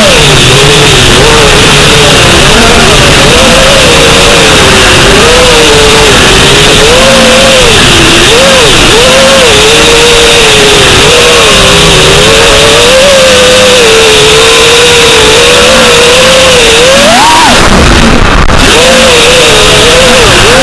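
FPV quadcopter's brushless motors and propellers whining, the pitch constantly rising and falling with the throttle. About seventeen seconds in, the pitch jumps up sharply, then drops away for about a second before the whine picks up again.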